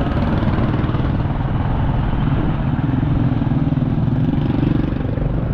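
Motorbike engine running while riding, under steady rumbling road and wind noise; the engine hum comes through more clearly from about halfway.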